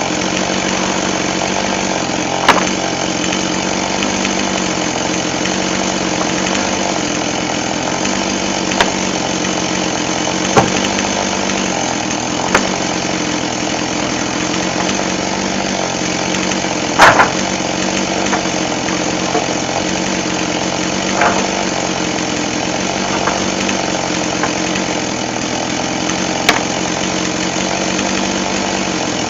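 Chainsaw engine running steadily while sawing firewood, its pitch shifting slightly now and then. Sharp knocks come every few seconds, the loudest about two thirds of the way through.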